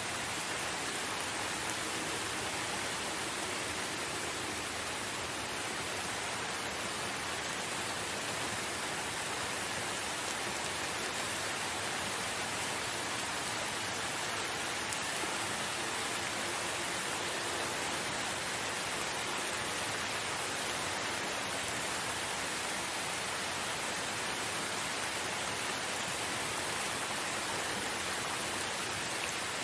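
Steady rain falling, an even hiss with no gusts, drips or thunder standing out.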